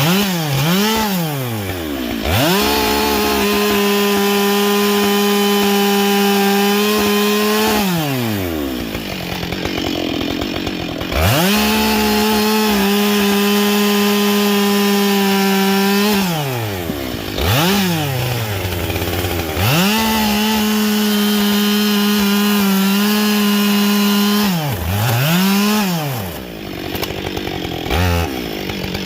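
Husqvarna 572XP two-stroke chainsaw fitted with a new carbide chain, revved up and held at a high steady speed for about five seconds, twice, dropping back to idle each time, then blipped briefly a few more times.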